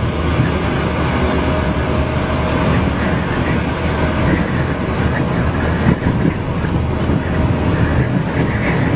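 Steady road and wind noise of a vehicle driving in a very strong crosswind, with a low drone underneath.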